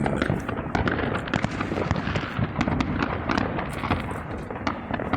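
Many fireworks and firecrackers going off at once, a dense continuous crackle of overlapping bangs and pops.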